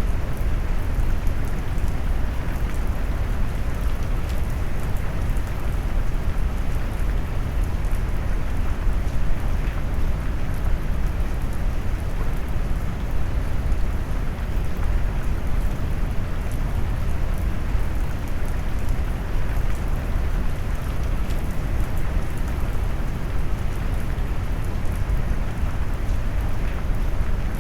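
Steady rain mixed with deep brown noise: a low, even rumble with a hiss of rain and faint scattered drop ticks on top.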